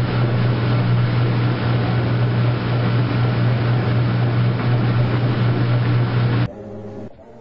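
Washing machine running: a loud, steady low hum over a rushing hiss, which cuts off suddenly about six and a half seconds in.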